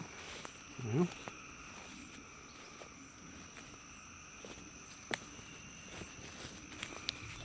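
Steady evening chorus of insects, several unbroken high drones. A short low pitched sound about a second in and a few sharp clicks, the clearest near five seconds.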